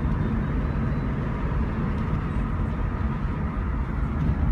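Steady in-cabin running noise of a 2002 Ford Thunderbird on the move with the windows down: low engine and road rumble with a faint steady hum.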